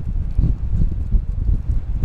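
Strong gusty wind buffeting the microphone, a loud, irregular low rumble that flutters unevenly.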